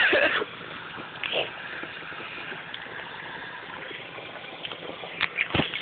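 Ground firework spraying with a loud hiss that drops after about half a second to a quieter, steady hiss, with a few sharp pops near the end.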